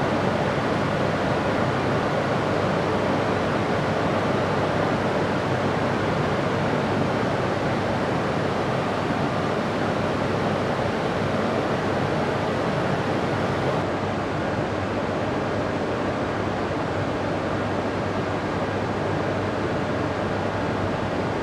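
Steady rushing hum from a stationary E6 series Shinkansen train, its fans and on-board equipment running while it stands at the platform; the noise eases a little about two-thirds of the way through.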